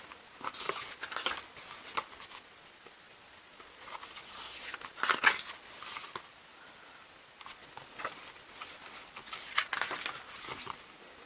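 Paper rustling and flipping as photobook pages are turned and handled, in three bouts, the loudest about five seconds in.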